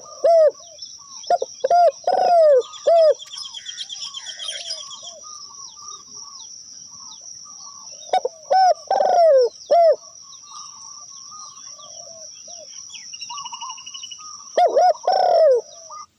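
Doves cooing: three loud bursts of quick, falling coo notes, at the start, about halfway and near the end. A steady high-pitched whine runs underneath, with fainter small-bird chirps and trills between the bursts.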